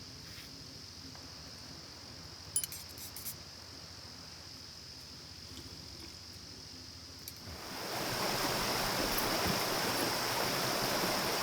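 Flowing river water rushing steadily. It swells up quickly about eight seconds in and then becomes the loudest sound. Before that there is only a quiet background with a steady high thin tone and a few light clicks.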